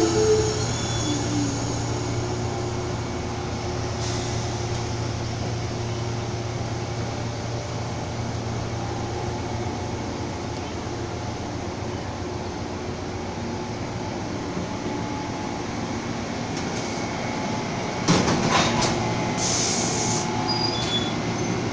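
A train passing on the line, a steady rumble and rail noise throughout, right after a locomotive horn's chord cuts off at the start. About 18 seconds in there is a louder burst of clanking.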